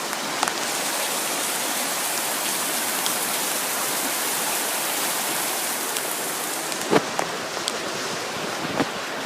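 Heavy rain pouring down in torrents: a steady rush of falling water, with a few sharper taps about seven seconds in.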